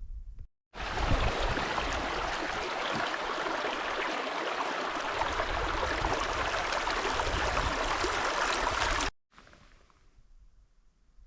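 Steady rush of a stream's running water, cut in and out abruptly for about eight seconds.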